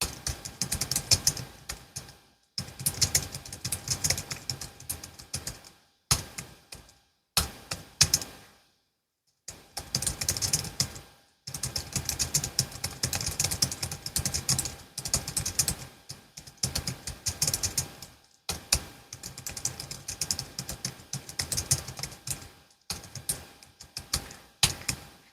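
Fast typing on a Logitech MX Keys S, a low-profile scissor-switch keyboard: quick keystroke clicks in runs of a few seconds, broken by short pauses.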